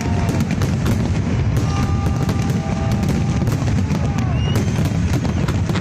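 A fireworks display: many rapid bangs and crackles over a dense, steady rumble.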